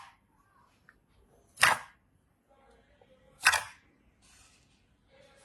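Slime being pressed or squeezed by hand, giving sharp, brief pops or crackles at even spacing of about two seconds, with faint soft squishing between them.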